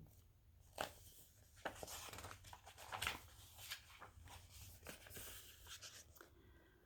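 Faint paper rustling and a few soft taps as the pages of a picture book are handled and turned.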